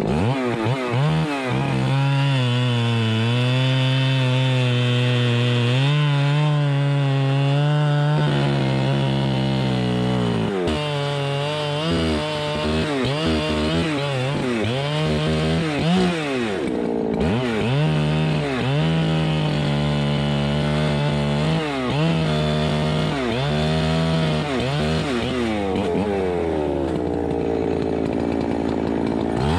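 Two-stroke chainsaw cutting wood, its engine pitch repeatedly sagging under load and picking back up. The saw is worn; the owner says it is running too rich and sputtering and that the muffler is cracked.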